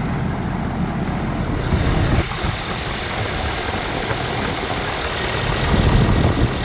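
Engine idling steadily with its oil filler cap off. Only a little smoke comes out of the filler, a sign of little blow-by.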